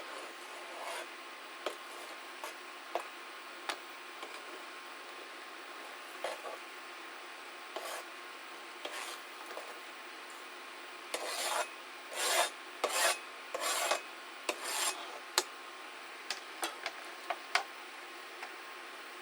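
Broccoli florets being scraped and shuffled into a pan: scattered short scraping and rubbing sounds, coming thickest and loudest around the middle.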